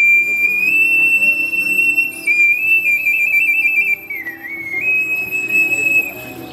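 Ocarina playing a high, nearly pure melody line: a long held note, fluttering trills in the middle, a brief dip in pitch, then another held note. It is heard over a soft backing accompaniment.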